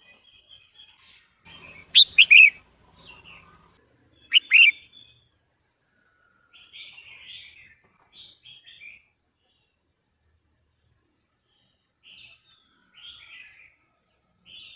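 Female red-whiskered bulbul calling: two loud bursts of short, sharp notes, about two seconds in and again around four and a half seconds, with softer scattered chirps between.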